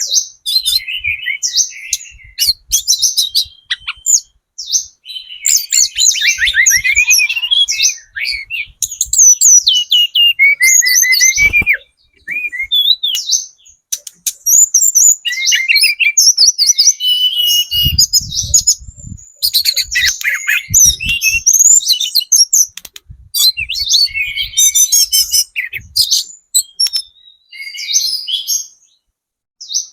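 Tledekan gunung singing long runs of rapid, high twittering and trilled notes, broken by short pauses. A few low knocks come about halfway through.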